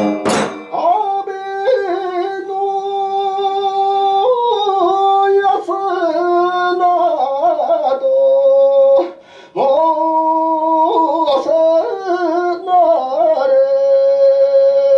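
A solo voice singing long, drawn-out held notes with sliding, wavering ornaments, breaking once for breath midway. Plucked-string strokes sound at the very start and right after the end.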